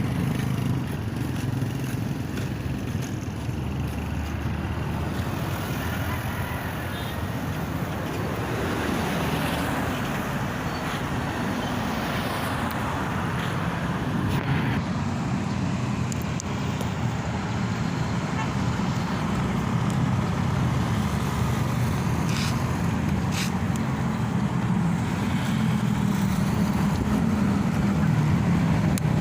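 Steady road-traffic noise, with vehicle engines and tyres running along a road.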